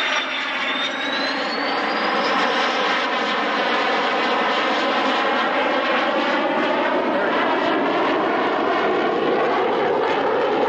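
Display aircraft flying a slow, low pass, its engine running steadily throughout. A high whine dips and then rises over the first couple of seconds.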